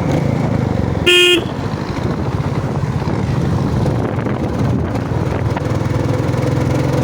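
Royal Enfield Bullet's single-cylinder engine running steadily at road speed. A short horn blast sounds about a second in.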